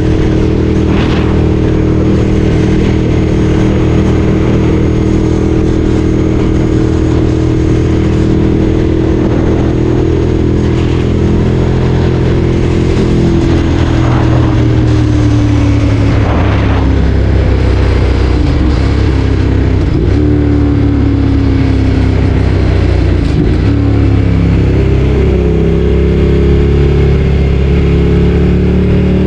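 Ducati Streetfighter 848's L-twin engine running under way, holding a steady note for the first dozen or so seconds, dropping in pitch as the throttle eases, then rising again near the end.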